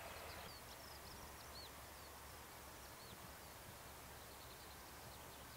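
Near silence with a few faint, short bird chirps in the first three seconds over a low steady rumble; a faint hum fades out about half a second in.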